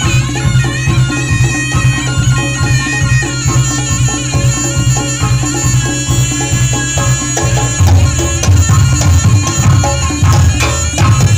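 Live Reog Ponorogo gamelan music: a reedy slompret shawm playing a sustained melody over kendang drums and gong strokes, the drumming heavier in the last few seconds.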